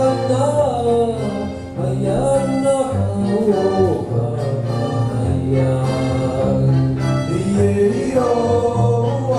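A song performed live: singing over a steady instrumental backing with sustained low bass notes.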